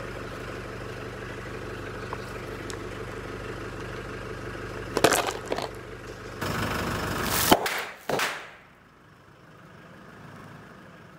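Car engine idling steadily, with a few sharp cracks about five seconds in. The idle cuts off abruptly about seven and a half seconds in, and after one more short sharp sound it is much quieter.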